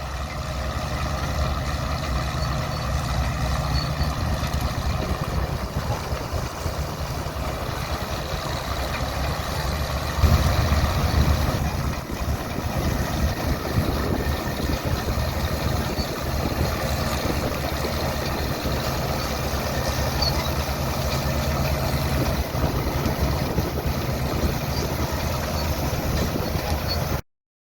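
Vintage Caterpillar crawler and Case harvest machine running steadily in the field, with a low engine hum that swells louder about ten seconds in. The sound cuts off suddenly near the end.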